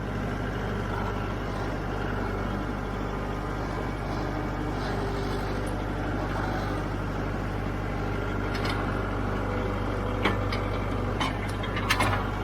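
Diesel tractor engine running steadily, with a few short knocks or clanks in the last few seconds.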